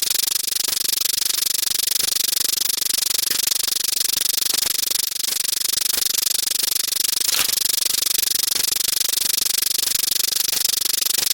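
Edited-in sound effects for a number-counting video, fired so fast that they blur into a steady, dense clatter of rapid clicks, mostly high-pitched.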